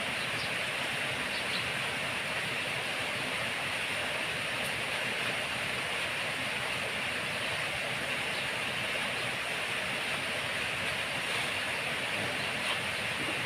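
Steady hiss of rain falling, even throughout, with a few faint ticks.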